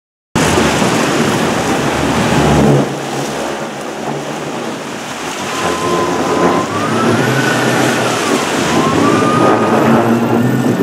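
Sport-fishing boat at sea: a loud, steady rush of engine, wind and water noise. From about halfway through, a whine glides up and down in pitch several times.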